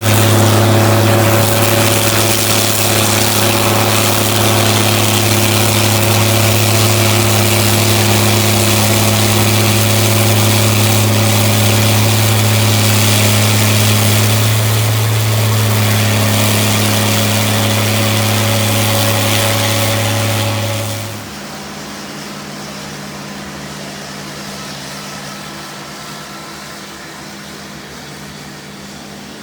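Engine of a snow-removal machine running steadily at a fixed pitch, with a loud rushing noise over it. About two-thirds of the way through the loud engine note and rush drop away fairly suddenly, leaving a quieter steady hum.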